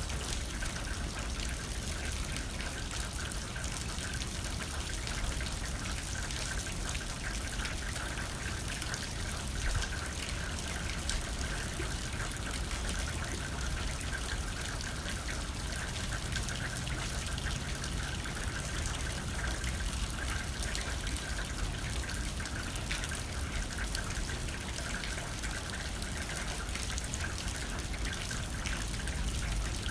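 Steady rain pattering and trickling on a window pane, with a low rumble of wind underneath.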